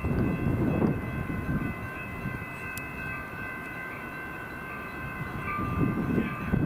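A train running past, a rumble that eases in the middle and swells again near the end, with several steady high tones held over it.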